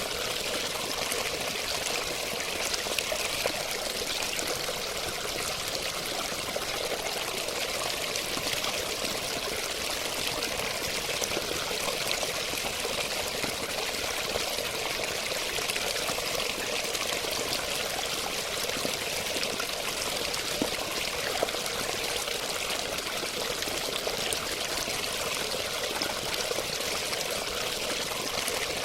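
Running water flowing steadily and without pause: an even rush of bright hiss over a lower burble.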